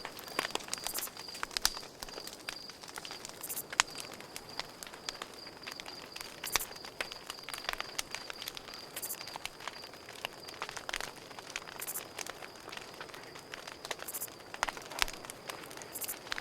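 Campfire crackling with irregular sharp pops and snaps, over a cricket's steady, high, rapidly pulsed chirping.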